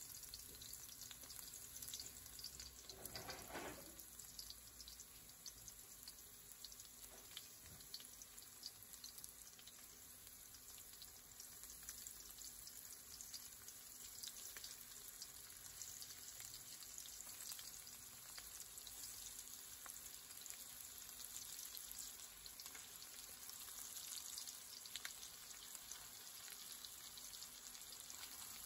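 Garlic and flour-coated chicken pieces frying in olive oil, a quiet, steady crackling sizzle, with a brief louder rustle about three seconds in.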